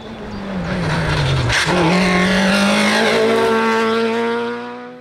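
Rally car engine passing at speed: its note falls for about a second and a half, jumps back up, then climbs steadily as the car accelerates away, fading near the end.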